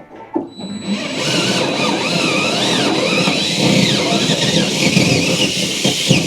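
Power drill boring a mounting hole, starting about a second in and running steadily, its motor whine wavering up and down as the load changes.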